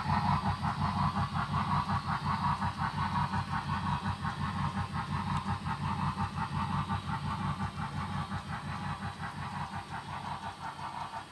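Sound system of an HO-scale Broadway Limited 2-8-0 Consolidation model steam locomotive playing rapid, even steam exhaust chuffs as the model runs, gradually getting quieter.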